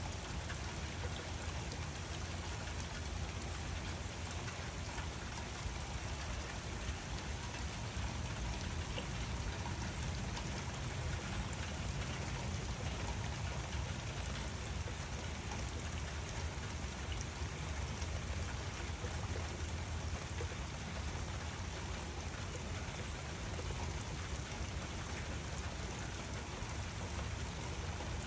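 Steady rain falling, an even patter of drops with a low rumble underneath and occasional single drops ticking out.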